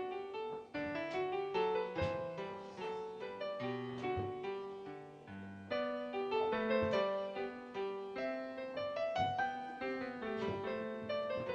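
Background piano music: a flowing melody of quick notes over chords.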